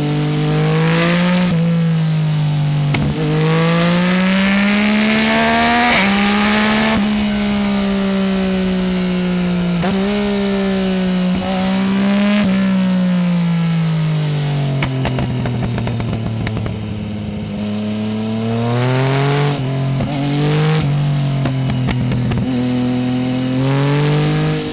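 Yamaha Tracer 900 GT's 847 cc inline-three engine through a full Roads Italia exhaust with no dB killer, heard from under the seat while riding. It pulls hard with the pitch climbing and dropping sharply at upshifts, then rolls off and slows for several seconds, with a few quick throttle changes on downshifts before it accelerates again near the end.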